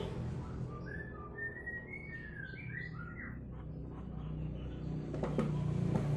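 A small bird chirping and whistling in a quick run of short notes through the first half, over a steady low hum.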